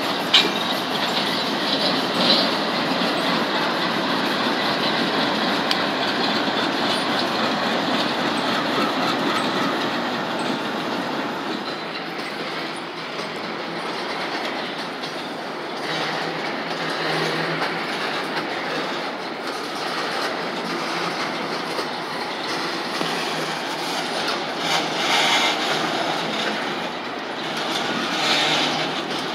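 Double-stack freight trains rolling past close by: a steady rumble and clatter of wheels on the rails, changing in character about halfway through as a second train takes over.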